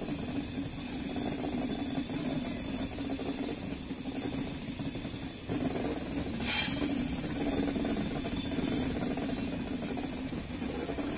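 Passenger express train running, heard from an open coach doorway: a steady rumble of the coaches on the track, with a brief louder hiss about six and a half seconds in.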